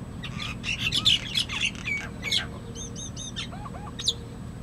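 Birds chirping in a rapid, dense flurry as they fight. After the burst come three short repeated whistled notes, a few lower notes and one sharp chirp near the end.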